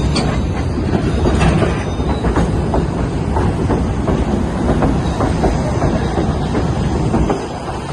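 Passenger train on the White Pass & Yukon Route narrow-gauge railway running along the track: a steady rumble with the repeated clicking of wheels over rail joints. The rumble eases a little about seven seconds in.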